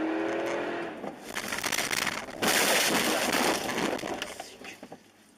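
Car crash: a sudden loud crunch of impact about two and a half seconds in, dying away over the next two seconds.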